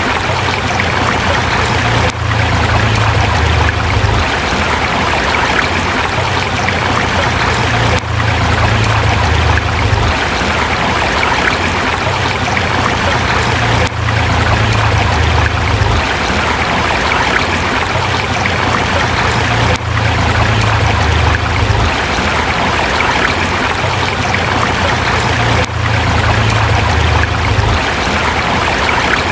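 Forest river flowing over rocks: a steady rush of water, with a low rumble that swells for a few seconds and fades again, over and over.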